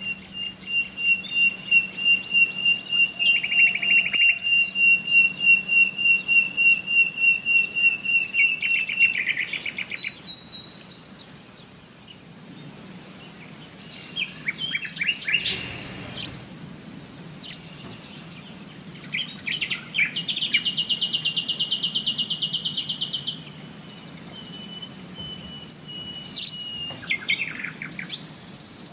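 Songbirds singing: a long run of evenly repeated high chirps, about two or three a second, for the first third, then scattered calls and a rapid buzzy trill lasting a few seconds about two-thirds through.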